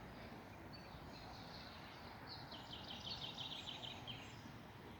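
Faint outdoor ambience with a small bird giving a quick, high, rapidly repeated trill from about two to four seconds in.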